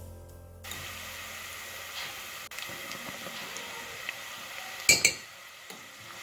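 Kitchen handling sounds: light clinks and clatter of dishes and utensils over a low steady room noise, with two sharp clicks in quick succession about five seconds in.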